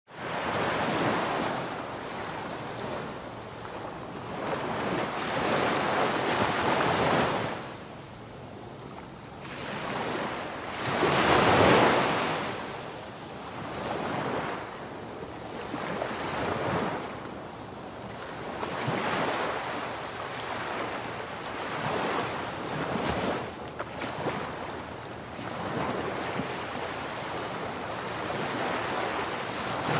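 Ocean waves breaking and washing on a shore, swelling and falling every few seconds, one wave louder than the rest about eleven seconds in.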